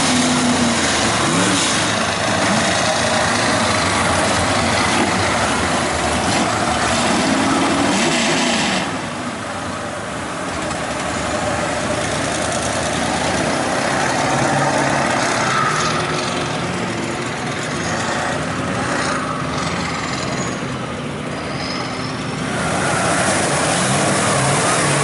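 Mud truck engine revving hard, its pitch rising and falling, with a loud noisy wash over it; it eases off about nine seconds in and picks up loud again near the end.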